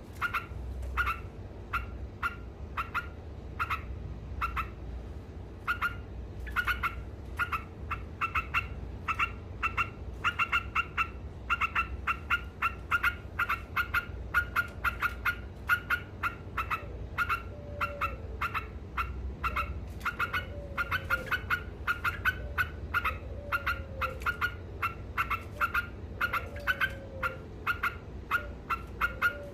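Yellow-vented bulbul (trucukan) calling in a fast, unbroken chatter of short sharp notes, about three to four a second, the continuous 'ngekek' style that bird keepers prize.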